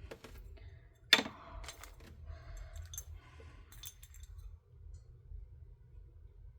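Small hard plastic tools and containers clicking and clinking as they are handled and set down, with one sharp click about a second in; the clicks die away about four seconds in.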